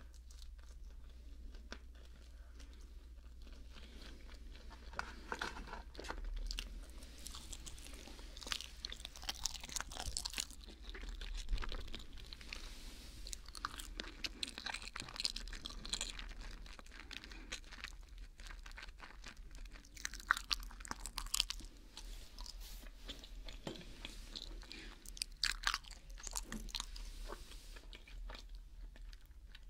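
Close-up mouth sounds of a person chewing a mac and cheese sandwich: wet clicks and smacks coming in bunches, right at the microphone.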